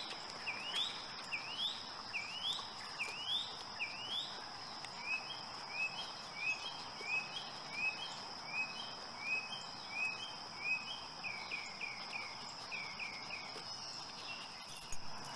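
A songbird singing a long run of clear whistled notes, about one and a half a second: first rising slurs, then shorter level notes, then falling ones near the end. Under it, a steady high-pitched insect drone.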